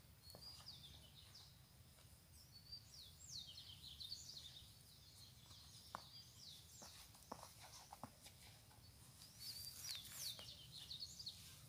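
Faint chirping of small birds: many quick, high, downward-sliding chirps in two bouts, over a low steady background hum.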